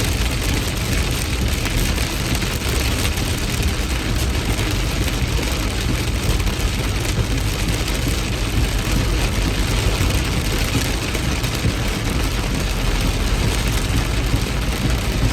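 Heavy rain pouring steadily, an even hiss over a constant low rumble.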